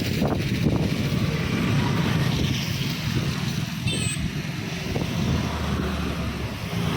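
A vehicle travelling on a road: steady engine and road noise with wind on the microphone, and a brief high chirp about four seconds in.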